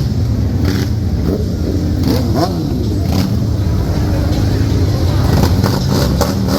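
Motorcycle engines running with a deep, steady rumble and occasional revving, with voices mixed in.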